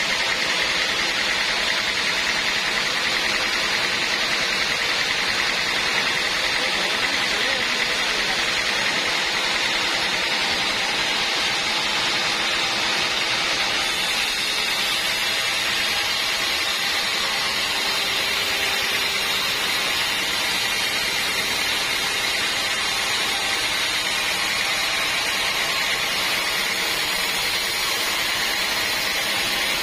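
Sawmill band saw running steadily, a loud, even noise with no pauses or changes.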